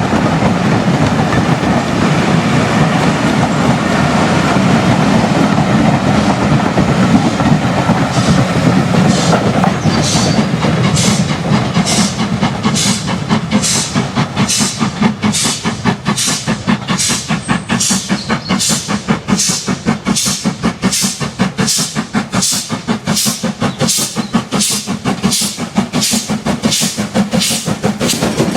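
Steam locomotive working: a heavy rumble gives way, about eight seconds in, to sharp, regular exhaust beats that come gradually faster as it picks up speed.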